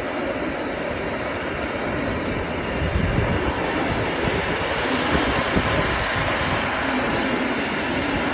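A freight train hauled by Colas Rail Class 70 diesel locomotive 70812 passing, a steady rumbling noise that grows louder about three seconds in.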